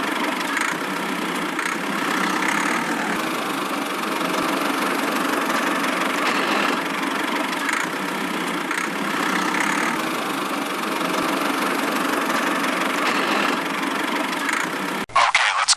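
Engine running steadily at idle. It cuts out abruptly near the end and is followed by a brief louder burst.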